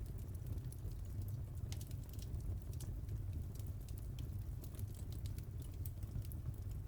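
Wood fire crackling in a fireplace: many small, irregular snaps and pops over a steady low rumble of the flames.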